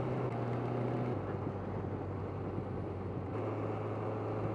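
Suzuki GSX650F's inline-four engine running at low, even revs under a steady rush of wind noise; the engine note drops about a second in and rises again past the three-second mark.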